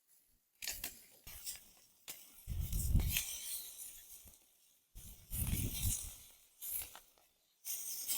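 Rustling and crinkling in five bursts, with low bumps of handling noise; the second and third bursts are the longest and loudest.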